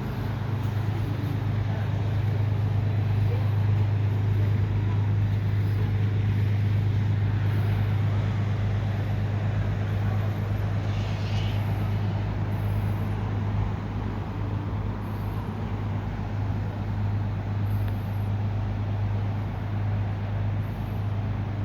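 Steady low-pitched drone of an engine or motor, unbroken throughout, over a background of outdoor noise.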